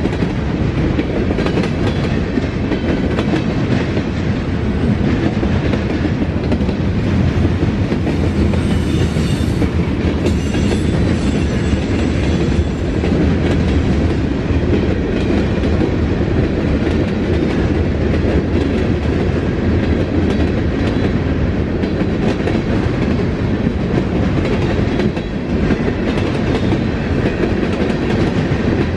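Freight cars of a passing Norfolk Southern train rolling by at steady speed, wheels clicking over the rail joints, with a brief faint high wheel squeal about nine to twelve seconds in.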